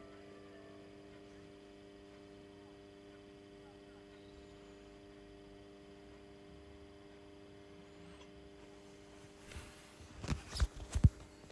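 Ballast of a 250 W metal halide flood light humming faintly and steadily just after switch-on, while the lamp starts up. A few sharp knocks come near the end.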